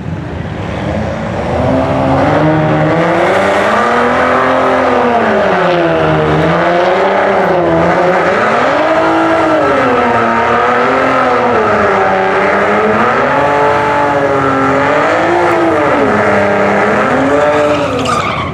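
Cadillac ATS-V's twin-turbo V6 revving up and down over and over, about every two seconds, during a burnout that spins the rear tyres into smoke. It cuts off suddenly near the end.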